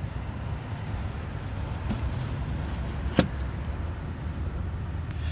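Steady low rumble of the 2005 Mercedes SL500's V8 idling, heard from beneath the car, with a single sharp click about three seconds in.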